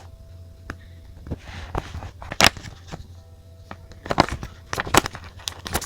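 Stationery being handled on a desk during journaling: irregular sharp taps and clicks, a few much louder than the rest, over a steady low hum.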